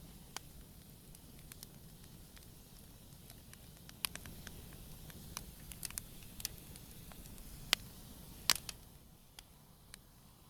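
Campfire burning, its wood crackling with scattered sharp pops over a low steady rumble; the two loudest pops come a little under a second apart late on.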